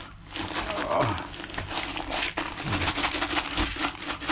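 Rustling and crinkling of seed bags and loose seed being handled and stirred by hand, many small rattling clicks.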